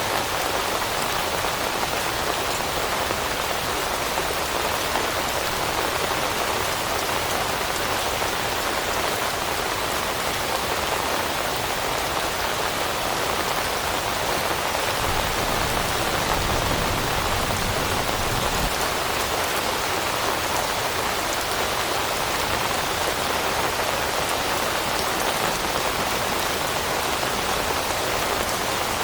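Steady, even rain falling on forest leaves. A low rumble swells briefly about halfway through.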